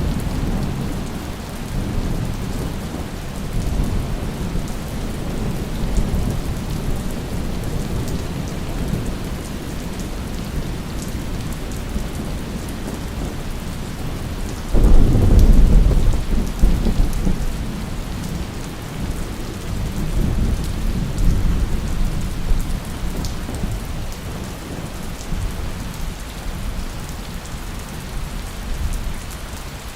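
Steady heavy rain with rolling thunder. A loud thunderclap breaks about halfway through and rumbles away over several seconds.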